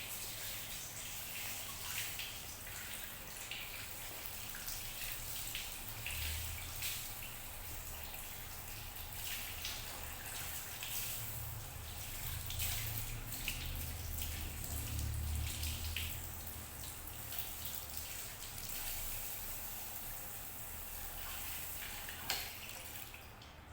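Water running from a tap or sprayer and splattering, with many small sharp splashes and drips over a steady hiss, as at a shampoo basin.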